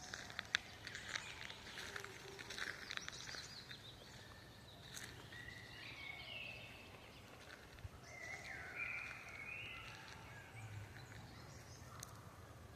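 Wild birds calling in a forest: a rapid run of short chattering clicks in the first three seconds, then a few brief whistled calls that glide in pitch, over a faint steady low rumble.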